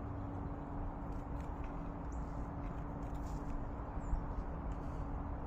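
A steady low outdoor rumble with a faint hum, and a couple of short, high chirps from small birds, about two seconds in and again near four seconds.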